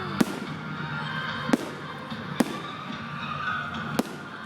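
Aerial fireworks going off: four sharp bangs, roughly a second apart, over a steady crackling hiss from the display.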